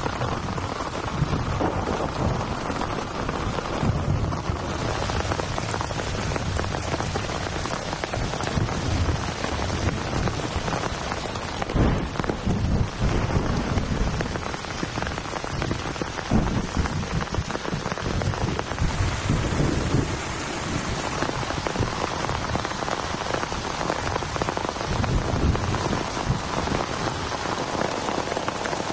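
Heavy rain falling steadily, with low rumbling swells now and then.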